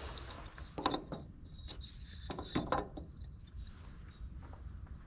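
A few light knocks and clicks as hands work a tractor headlight bulb and its housing: one about a second in and a small cluster around two and a half seconds in, over a low steady rumble.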